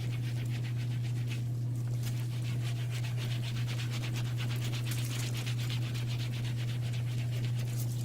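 Fast, rhythmic rubbing strokes on leather, as when dye is worked into a bag with a cloth or brush, over a steady low hum.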